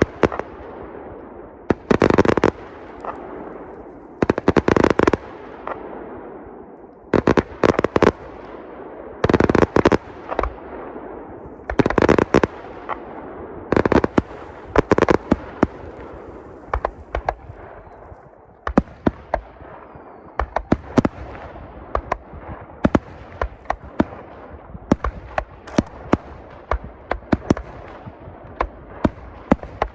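Fireworks display going off. For the first half, clusters of loud bangs come about every two to two and a half seconds, each followed by a rumbling echo. Then comes a long run of quick, sharp single cracks.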